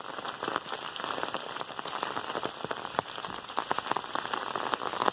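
Heavy rain falling, a steady hiss dense with the small ticks of drops hitting close by.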